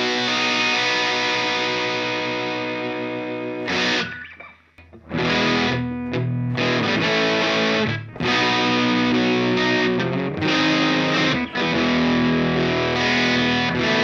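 Electric guitar through a ProCo RAT distortion pedal: a distorted chord rings out and fades, then after a brief break about four seconds in, playing resumes through a modified 1979-spec RAT.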